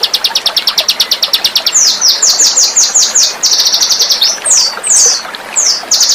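Small songbird singing a fast, high trill of rapidly repeated notes. Around the middle it breaks into a run of downward-sweeping notes and a few separate falling notes, then trills fast again near the end.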